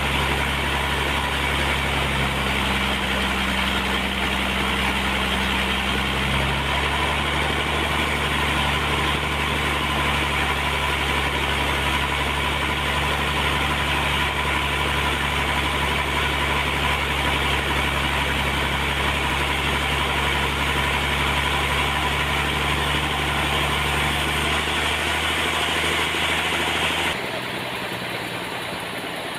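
Sawmill machinery running steadily: an engine's hum with a loud hiss of the saw over it. The sound drops and thins out near the end.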